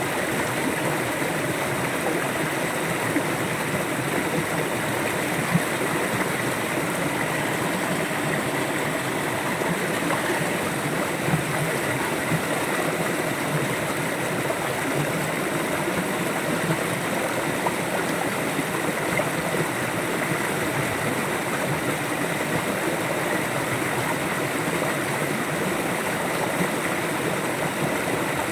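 River water flowing steadily, a continuous rushing with light gurgling.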